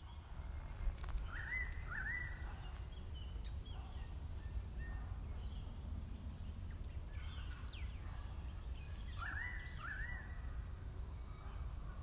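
Bird calling outdoors: a pair of short rising calls, then another pair about eight seconds later, over a low steady rumble.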